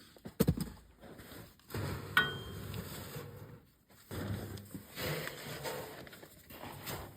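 Hard objects being handled: a couple of sharp knocks, one with a short metallic clink, then rustling and scraping.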